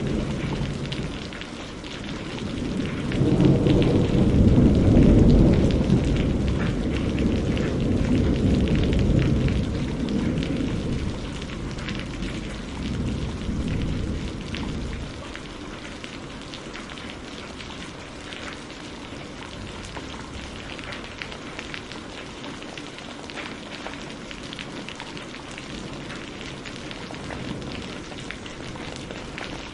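Steady rain with a long low roll of thunder that swells a few seconds in and dies away about halfway through, after which the rain carries on with small crackling ticks.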